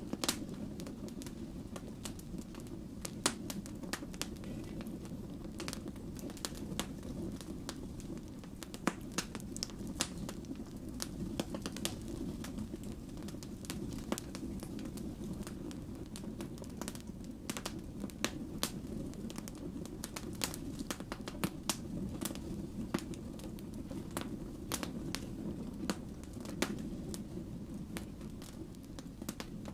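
Wood fire burning: irregular sharp crackles and pops from the burning logs over a steady low rumble of the flames.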